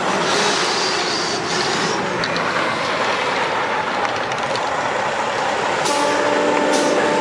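A 2005 Freightliner Columbia tractor truck running, a steady rushing noise, with a steady whine setting in about six seconds in.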